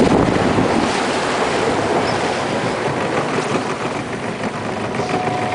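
Steady rushing noise of wind and open water around a small boat, with wind buffeting the microphone.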